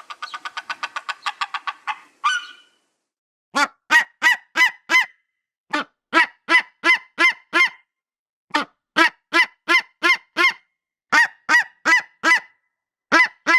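Bald eagle calling: a fast trill of short high notes for about two seconds, then repeated bursts of four to six separate, sharp, pitched calls.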